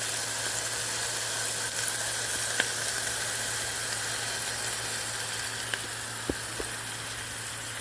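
Meatballs browning in a hot skillet, sizzling steadily with a few small pops of spattering fat: the sizzle the cook calls the meatballs "singing".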